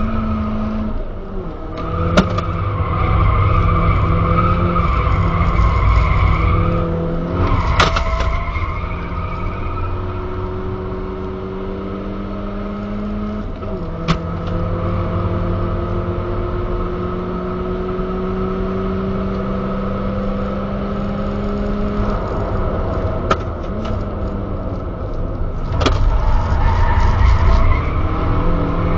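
Skoda Octavia 1.8T's turbocharged four-cylinder engine, fitted with a Supersprint exhaust and K&N air filter, heard from inside the cabin at speed on track. The engine pitch climbs slowly under acceleration and drops back twice at gear changes, with a few sharp knocks along the way.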